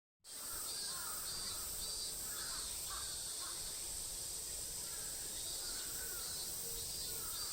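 Birds calling repeatedly in short curved calls over a steady, high-pitched insect buzz that pulses about twice a second.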